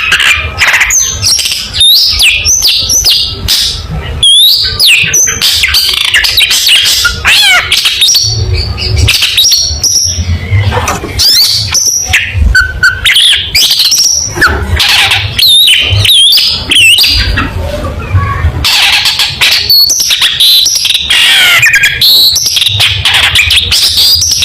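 Long-tailed shrike (cendet) singing at full intensity: a fast, almost unbroken stream of harsh chatters, sharp chips and quick whistled notes, with a low rumble underneath at times.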